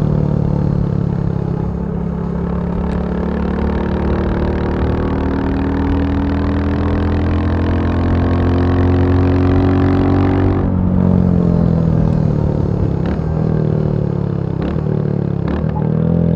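Royal Enfield Bullet 350's single-cylinder four-stroke engine running, its note climbing slowly for about ten seconds, then turning lower and softer with a sharp change before settling.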